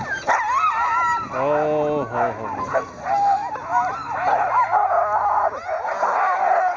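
A pack of harnessed sled dogs yelping, whining and howling all at once in many overlapping high, wavering calls: the excited clamour of dogs impatient to run. A lower, drawn-out call stands out about a second and a half in.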